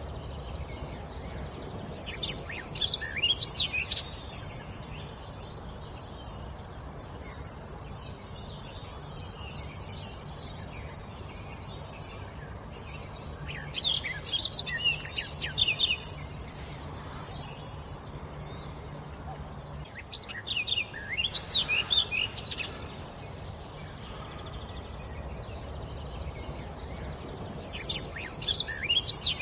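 A songbird singing in short phrases of quick, high whistled notes, four phrases several seconds apart.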